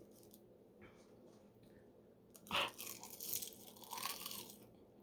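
A person takes a crunchy bite of food about halfway through, then chews with crackling crunches for about two seconds, close to the microphone.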